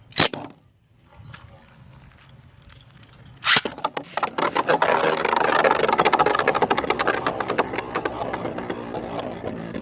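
Two Beyblade spinning tops launched into a plastic stadium, landing with a loud hit about three and a half seconds in, then spinning and clashing in a fast, dense clatter that slowly fades. A single sharp click comes just after the start.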